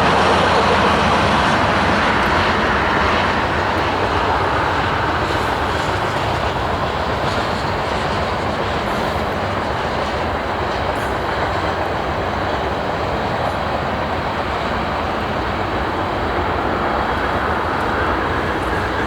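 Freight train rolling past steadily, a dense, even noise of wheels on the rails with some clickety-clack.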